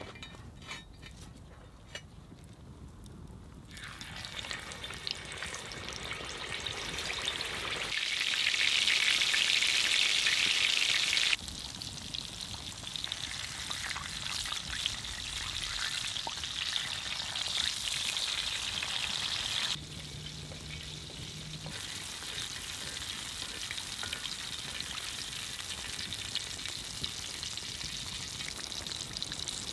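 Bacon-wrapped chicken parcel sizzling in hot fat in a black pan over a campfire, the sizzle loudest for a few seconds about a third of the way in and changing level suddenly twice. It opens with a few seconds of quieter clicks before the sizzle builds.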